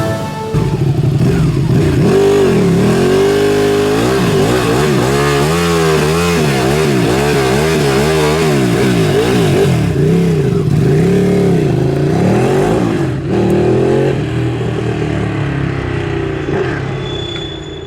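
BMW R 1300 RT's boxer-twin engine and exhaust, revving up and down repeatedly with the pitch rising and falling every second or two. It fades away over the last few seconds.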